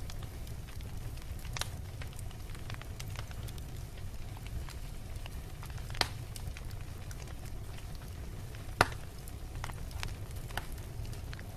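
Beach bonfire crackling, with many small snaps and pops over a steady low rumble; two louder pops stand out, about six seconds and about nine seconds in.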